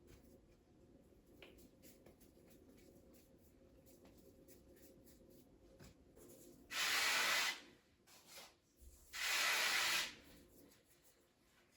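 Two loud hissing bursts, about a second each and a couple of seconds apart, like a spray, after faint scratching and light ticks.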